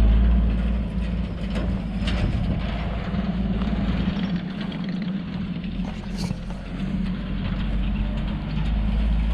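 Toyota FJ45 Land Cruiser's straight-six petrol engine running at low revs as the ute is driven slowly. It eases off a little about halfway through and picks up again near the end.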